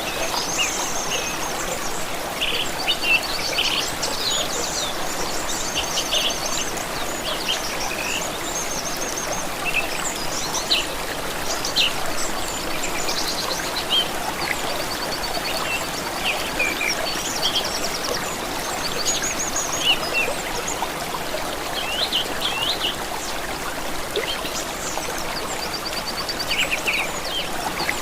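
Songbirds chirping and trilling over the steady rush of a flowing stream.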